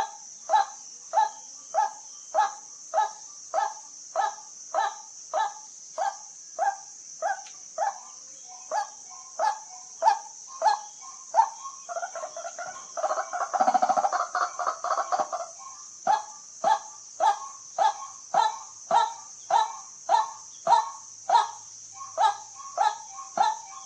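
White-breasted waterhen repeating its short 'kwak' call evenly, close to twice a second, breaking about halfway through into a faster, denser chattering run before the even calling resumes. A steady high hiss runs underneath.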